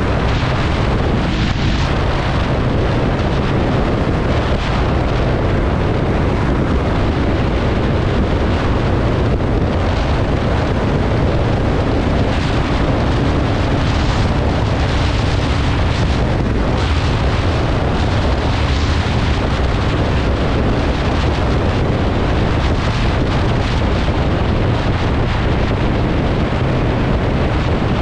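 Honda Shadow VT750's V-twin engine running steadily while riding, a deep low rumble mixed with wind buffeting on the microphone.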